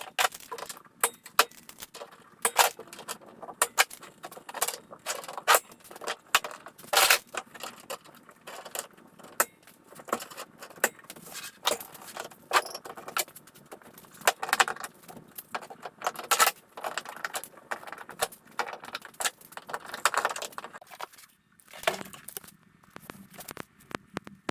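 Irregular sharp clicks, knocks and metallic clinks of hand work with tools and clamps, stopping near the end.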